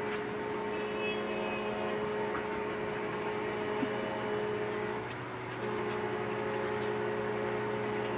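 Steady vehicle hum heard from inside the cab, with a brief dip about five seconds in.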